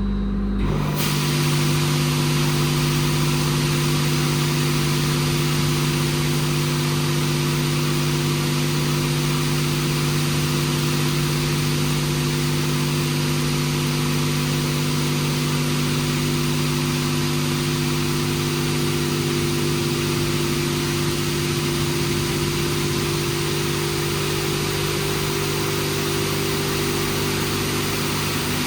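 WashTec SoftCare² Pro rollover car wash at work: a broad hiss of water spray switches on suddenly about a second in and then runs steadily over a constant hum of the pump and motors.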